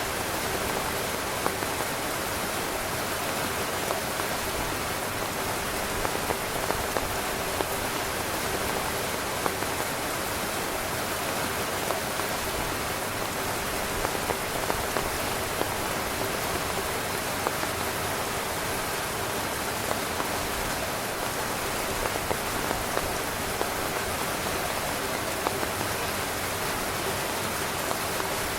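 Steady rain falling on a tent, a constant hiss with many individual drops tapping on the fabric.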